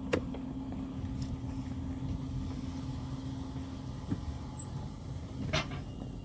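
Car running with a steady low rumble, a sharp knock just after the start and another knock about five and a half seconds in.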